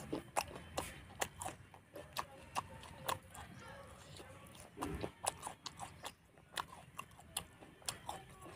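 Close-miked chewing and lip smacking as a person eats pork curry with rice by hand: wet mouth clicks come a few times a second at an uneven pace, with a brief low murmur about five seconds in.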